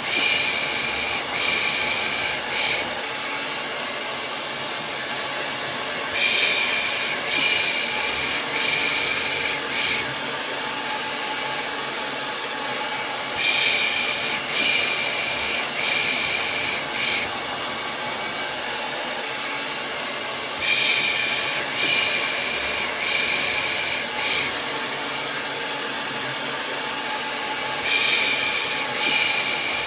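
Hair dryer running steadily as baby-soothing white noise. Over it, a soft shushing "pış pış" comes in groups of about four, one a second, every seven seconds or so.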